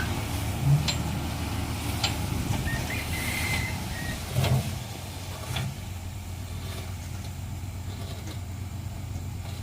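A long truck's engine running steadily while the truck unloads sand, with a few short knocks in the first half.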